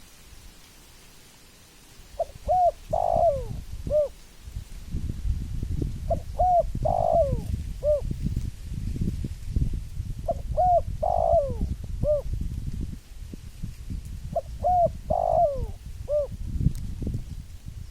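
Spotted dove (tekukur) cooing: four repeated song phrases about four seconds apart, each a few short coo notes running into a longer rolling coo. A low rumbling noise lies underneath throughout.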